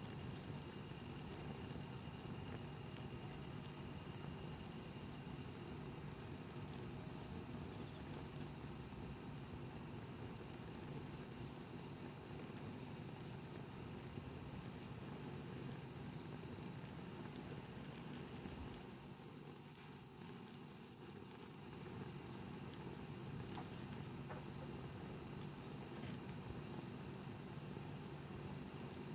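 Insects calling outdoors: a fast, steady pulsing chirp, and above it a higher trill that switches on for a second or two and off again, about every three seconds, over a faint steady background.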